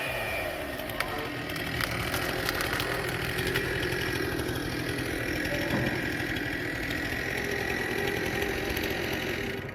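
A small engine running steadily at an even pitch, with a single click about a second in.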